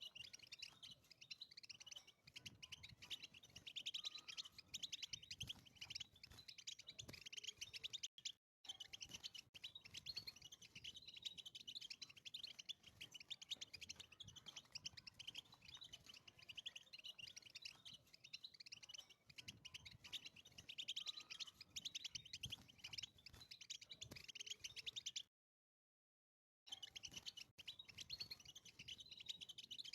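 European goldfinch singing a long, fast twittering song, mostly high in pitch. The song breaks off briefly about eight seconds in and again for about a second and a half near the end.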